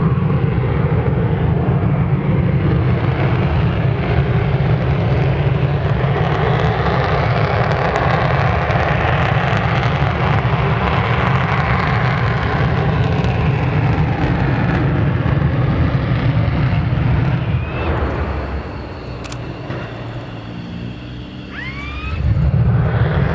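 F-15 fighter's twin turbofan jet engines running at high power in a pre-takeoff engine run-up: a loud, steady jet noise. About 18 s in the noise eases for a few seconds, with short rising whines, then comes back up near the end.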